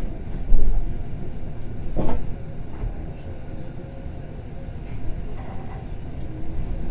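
Bernina Express train running with a steady low rumble. A heavy thump comes about half a second in and a sharp clack about two seconds in.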